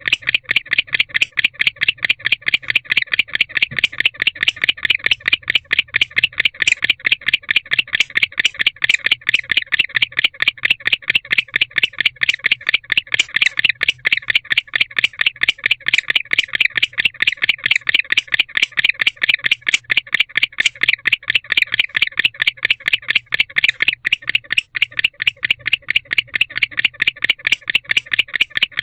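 Male barn owl's courtship chirping: short, sharp chirps repeated evenly and rapidly, about five a second, calling for the female.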